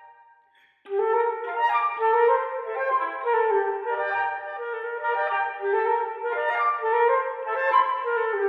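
After a short pause of under a second, wind instruments start a quick, continuous run of short notes in a classical piece.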